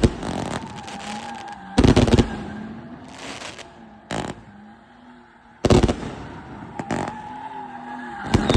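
A 500-shot firework cake firing in bursts: quick volleys of sharp bangs come about every one to two seconds, with crackling fizz between them.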